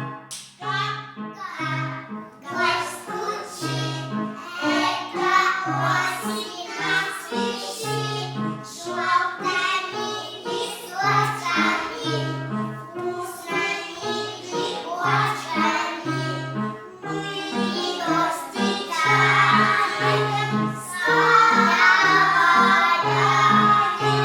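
Young children singing a children's song over a keyboard accompaniment with a steady, rhythmic bass line; it grows louder and fuller for the last few seconds.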